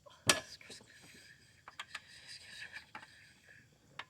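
Light clicks and clinks of tools and engine mounting bolts being handled on a mower deck, with one sharper knock just after the start.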